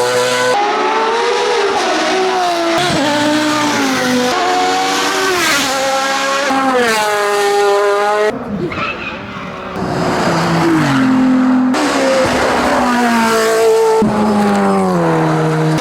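Hillclimb race car engines at full throttle, pitch climbing and dropping sharply again and again through gear changes, with cuts between different cars. A short, quieter stretch about halfway through is mostly a rough rushing noise.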